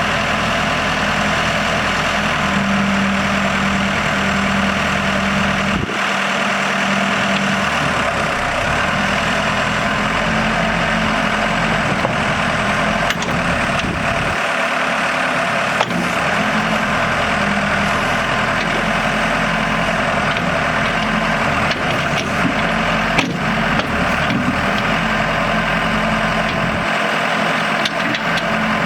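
Case 580 Super L loader backhoe's diesel engine running steadily. Its low note changes a few times, and a few short knocks sound over it.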